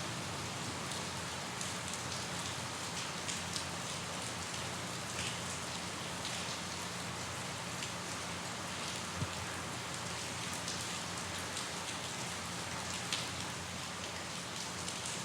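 Steady rain falling: an even hiss with scattered individual drops ticking sharply on a surface, one a little louder about nine seconds in.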